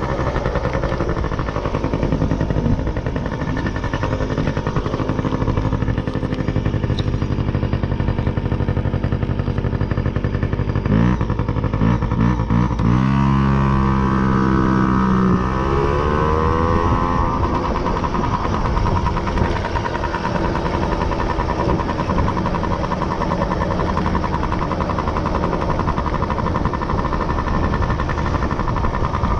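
Motorcycle engine running under way, its pitch rising and falling through several quick rev changes a little past the middle before settling back to a steady drone.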